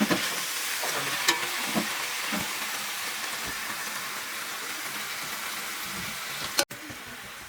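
Food frying in hot oil, a steady sizzle with occasional knocks and scrapes as it is stirred in the pan. Near the end the sound breaks off and a quieter sizzle follows.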